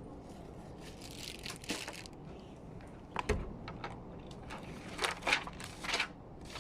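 Rustling and crinkling handling noises with scattered clicks, and one dull thump a little past three seconds in.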